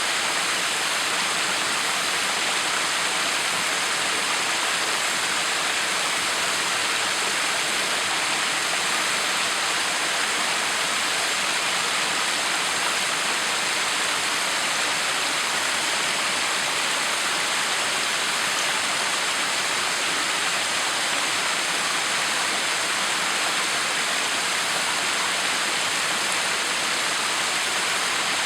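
Backyard waterfall: an even, unbroken rush of falling water splashing, with no change in level.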